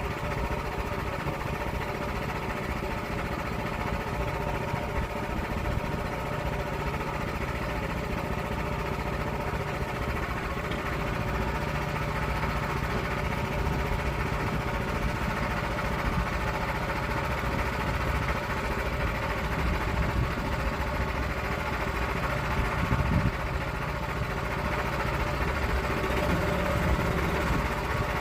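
Small gasoline engine of a log-milling saw running at a steady, even pitch while cutting an oak log.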